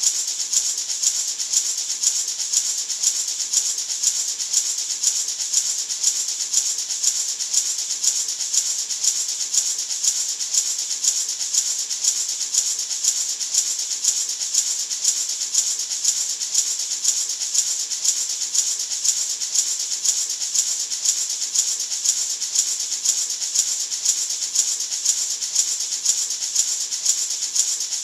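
Gourd maraca shaken in a steady, even rhythm, giving a continuous high hissing rattle used as white noise for sleep.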